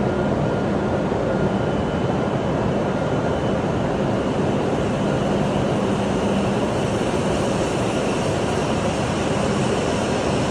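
W7 series Shinkansen electric train pulling out of the station: a steady rush and rumble of the moving train, with a faint low hum.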